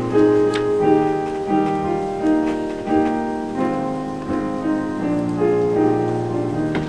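Piano playing slow, sustained chords, a new chord struck about every half second to second and left to ring.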